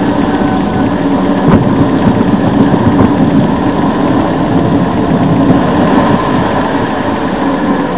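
Car engine and road noise, a steady, loud rumble from a moving vehicle, with a light knock about one and a half seconds in.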